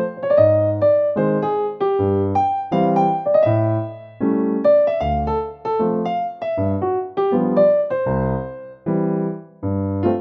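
Background piano music: chords played at an easy pace, with bass notes under each.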